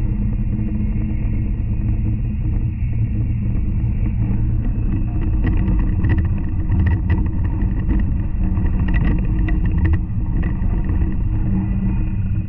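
N700 Series Shinkansen running noise heard from inside the car: a steady low rumble with a faint hum of steady tones over it. From about five seconds in, a run of short clicks and rattles comes through for several seconds.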